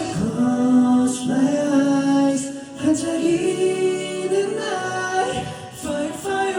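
Live K-pop performance: singing over the backing track, with long held notes that slide in pitch.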